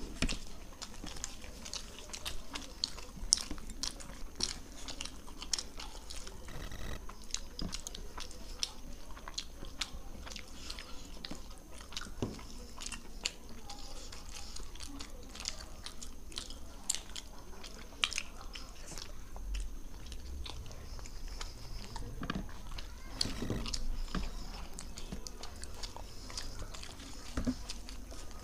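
Two people chewing soft roti and palak paneer close to the microphone: wet chewing with many small, irregular mouth clicks and lip smacks.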